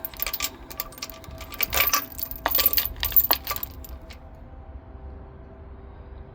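Light clattering and clinking of small hard objects, dense over the first three and a half seconds, then only a low steady hum.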